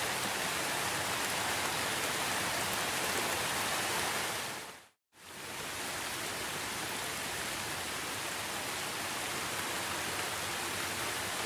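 Steady, even rain. About five seconds in it fades quickly to silence and comes straight back, like the join where a rain recording loops.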